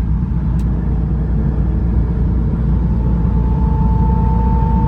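Porsche 718 Spyder RS flat-six engine and road noise while driving on a wet highway, heard loud inside the car. It is a steady rumble, and a held engine tone grows louder about three seconds in.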